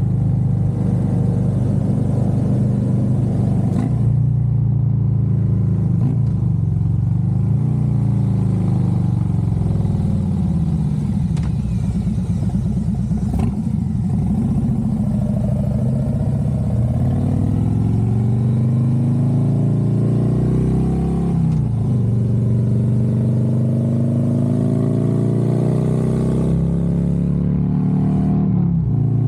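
Harley-Davidson Road Glide's V-twin engine running on the road, fitted with an S&S Stealth Stinger air cleaner. The engine note falls and rises several times as the bike slows and accelerates, with a brief drop about two-thirds of the way in, like a gear change.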